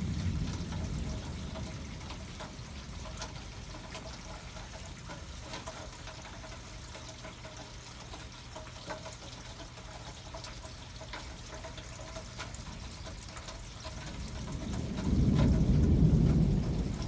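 Rain pouring and trickling steadily. A low thunder rumble fades out over the first couple of seconds, and a louder low rumble swells up about fifteen seconds in and dies away near the end.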